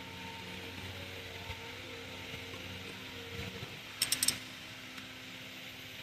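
Ratchet wrench clicking in one quick burst about four seconds in, as the engine is turned over by hand, over a faint steady hum.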